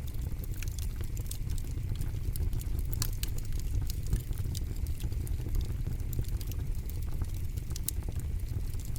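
Campfire crackling: a dense, irregular run of sharp pops and snaps over a steady low rumble.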